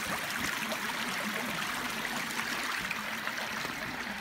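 River water flowing steadily with a continuous rushing sound.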